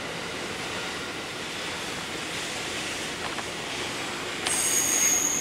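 E001 series Train Suite Shiki-shima passing on the rails, a steady running noise of wheels on track. Near the end a louder high-pitched squeal of several steady tones sets in, like wheels squealing on the rails.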